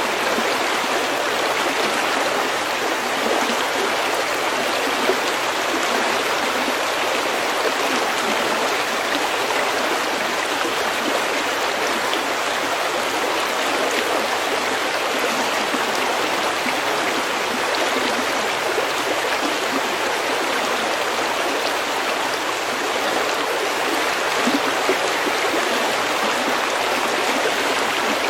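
Stream of snowmelt water flowing over pebbles, a steady, unbroken rush of running water.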